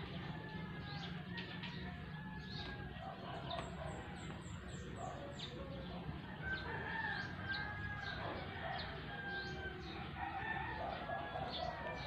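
Birds chirping and calling in the background, with a run of quick falling chirps about four seconds in and longer drawn-out calls a little past the middle, over a steady low hum.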